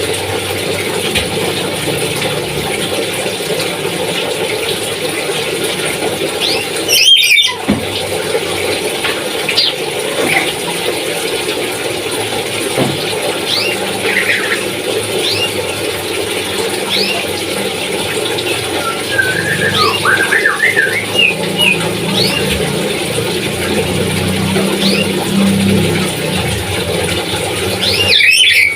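Pet Papuan nuri parrot calling: scattered short rising chirps and a run of chattering calls about two-thirds of the way through, over a steady background hiss. Twice a loud, harsh burst: once about seven seconds in and again at the end.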